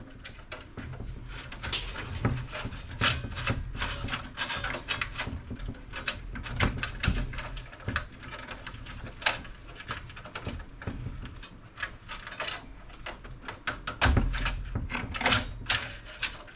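Irregular clicking, tapping and rattling of metal and plastic computer-case parts being handled and pried apart by hand, over a low steady hum.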